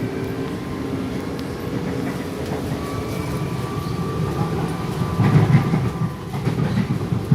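Interior running sound of an Alstom-built series 8900 electric multiple-unit train: a steady low rumble of wheels on track with a faint high whine, and a louder burst of wheel clatter about five seconds in.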